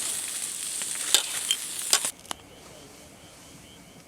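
Food sizzling in a hot pan, with a couple of sharp utensil clicks. The sizzle cuts off abruptly about two seconds in, leaving a much quieter background with faint ticks.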